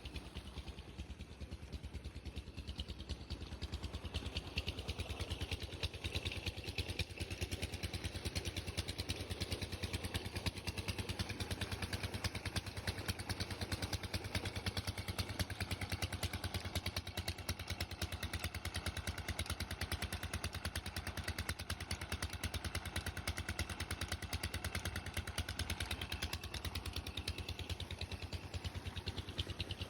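A 50-year-old diesel engine running at a steady speed, its firing beating out a rapid, even rhythm.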